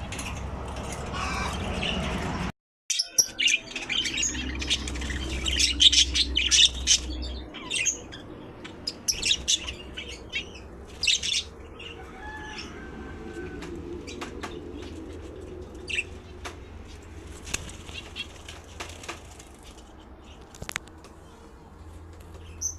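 Birds' wings flapping in a quick run of flutters, densest in the first half and sparser later, with a few faint bird chirps.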